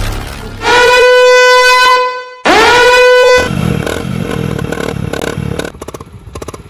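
Two long horn blasts, the second sliding up in pitch as it starts, followed by a small single-cylinder motorcycle engine running, with a rapid even putter near the end.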